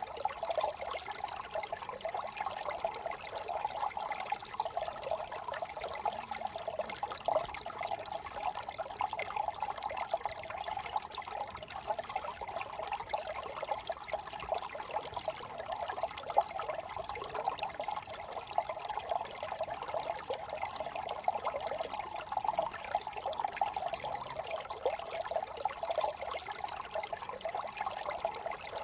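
Small brook trickling and babbling over stones, a steady even flow with no change.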